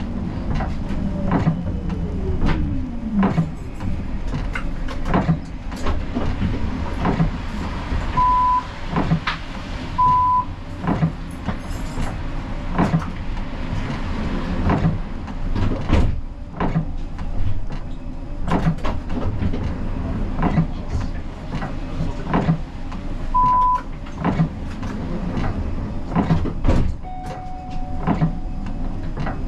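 Siemens Combino tram running, heard from the driver's cab: a steady low rumble with sharp clicks and knocks about once a second. A motor whine falls in pitch early on, as the tram slows. Short electronic beeps sound three times.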